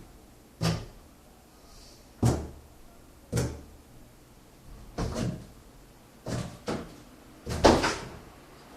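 A series of about seven separate knocks and bangs, irregularly spaced, the kind made by doors or cupboards being banged open and shut.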